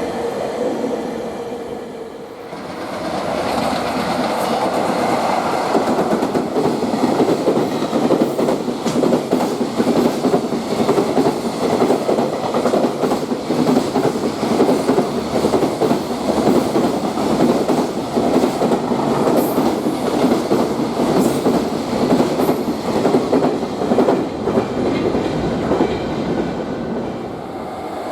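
Freight train passing through a station: the rhythmic clatter of wagon wheels over the rail joints. It builds about two seconds in and eases off near the end.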